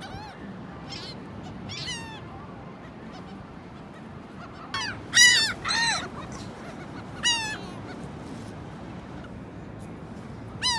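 Seagulls calling: a few scattered short cries, then a louder cluster of calls about five seconds in and another cry about seven seconds in, over a steady background hiss.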